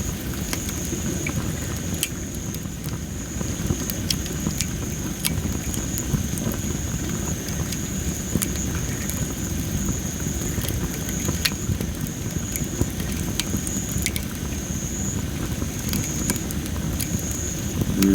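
Wood fire of well-dried Japanese spindle tree (masaki) logs crackling: scattered sharp pops and ticks over a steady low rumble, with a thin steady high tone behind them.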